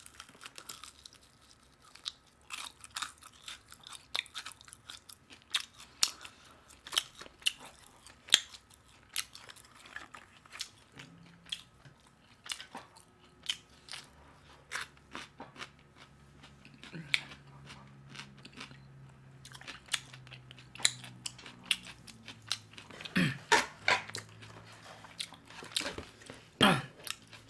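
Crispy fried chicken being bitten and chewed close to a microphone: many irregular, sharp crunches of the batter.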